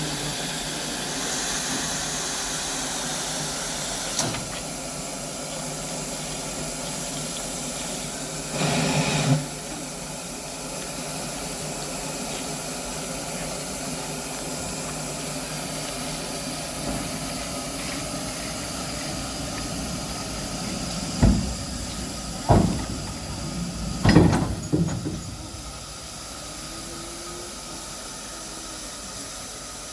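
Steady hiss of escaping steam from the Mount Lyell No. 3 steam locomotive, swelling louder for about a second around nine seconds in. Three sharp knocks come a second or so apart about two-thirds of the way through.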